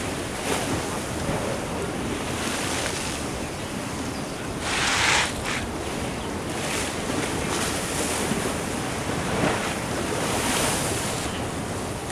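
Ocean surf washing against a sea wall, a steady rush of water noise with wind buffeting the microphone. One louder hissing surge of water about halfway through.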